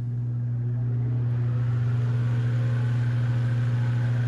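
Manning Bowman antique table fan's electric motor humming steadily as it comes up to speed, a little louder over the first second and then holding even. The motor is freshly oiled and the blade hub has been moved off the front bearing sleeve it was rubbing against, and it sounds so much better.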